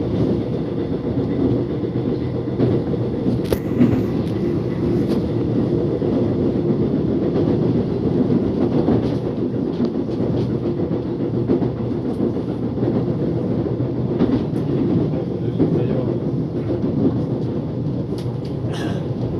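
Korean commuter subway train running, heard inside the car: a steady rumble of wheels on rail with a faint hum, and a few brief clicks and knocks along the way.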